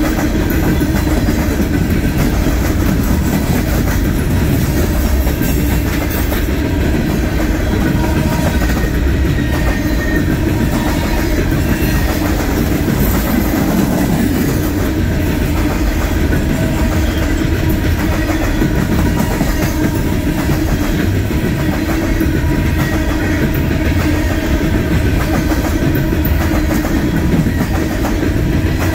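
Loaded coal train's open-top hopper cars rolling past close by on the near track, their steel wheels running loud and steady on the rails.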